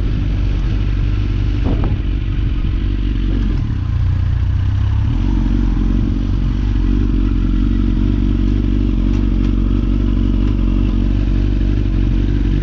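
Vehicle engine running steadily, its note changing about five seconds in.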